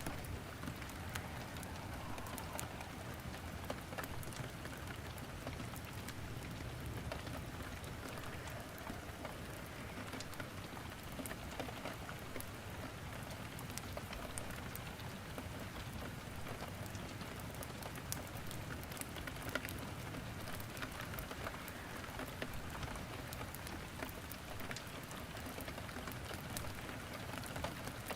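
Steady rain falling, mixed with a wood fire crackling in a fireplace, with frequent small sharp pops scattered throughout.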